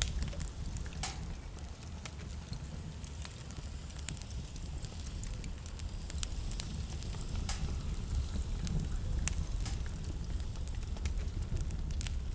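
Wood fire burning in a fireplace: a steady low rumble of flame with irregular sharp crackles and pops, one stronger pop about a second in.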